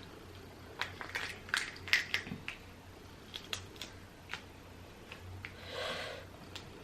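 Boiled crawfish shells cracking and snapping as they are peeled by hand: a quick cluster of sharp cracks in the first couple of seconds, then scattered single clicks. A brief soft rush of noise comes near the end. The crawfish are overcooked, so the meat is breaking apart inside the shells.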